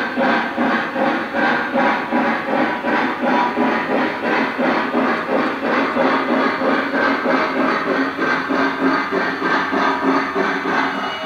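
Lionel Lionmaster Pennsy T1 model steam locomotive's onboard sound system playing steam chuffs in an even rhythm, about two a second.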